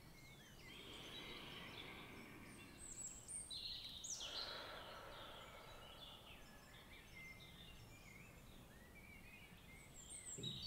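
Faint background birdsong: many small birds chirping and twittering, with a soft swell of rushing noise about four seconds in.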